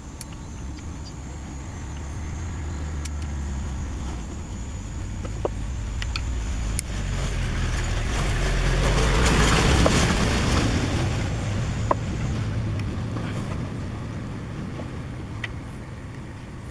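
A road vehicle's engine passing by: a low hum that grows louder for about ten seconds and then fades away. A few short clicks sound over it.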